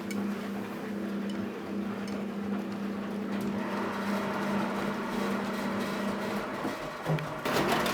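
Philco Bendix W84RX washing machine running with a steady motor hum, which stops about six and a half seconds in. Near the end a louder rushing, clattering noise starts.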